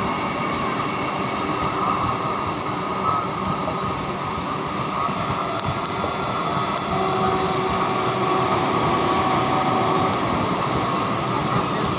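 Vande Bharat electric train running at speed, with a steady, even rumble of wheels on rail; a faint steady whine is heard from about seven seconds in until about ten seconds.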